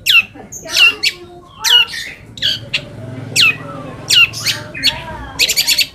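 Long-tailed shrike (cendet) giving harsh, scolding calls: sharp downward-slurred notes about once a second, then a quick chattering rattle near the end.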